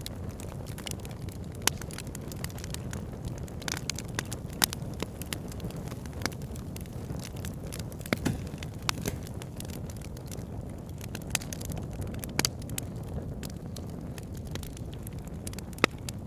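Wood fire burning in a fireplace: a steady low rumble of flames with frequent sharp crackles and pops, and a handful of louder snaps scattered through.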